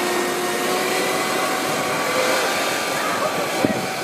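A vehicle engine running steadily under a thick noisy hiss, with faint whining tones over it and one short sharp click near the end.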